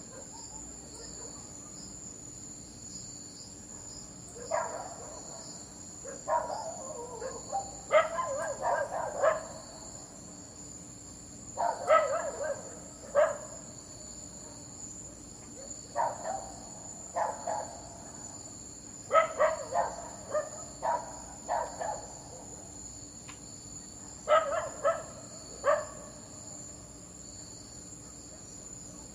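A dog barking in clusters of two to six quick barks every few seconds, with short pauses between the clusters. A steady high-pitched hum runs underneath.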